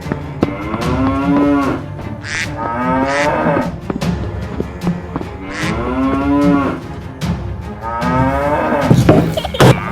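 Cows mooing: about four long, drawn-out moos that rise and fall in pitch, one after another.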